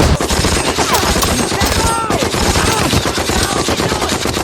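Dense movie battle gunfire: rapid machine-gun bursts mixed with rifle shots, going on without a break. Several short whines fall in pitch over the shooting.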